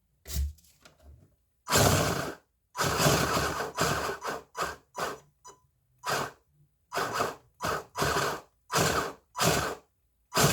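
Kyosho Fazer D2 RC drift car's gears whirring in about a dozen short, irregular bursts, as its controls are worked to test the newly connected smoke exhaust.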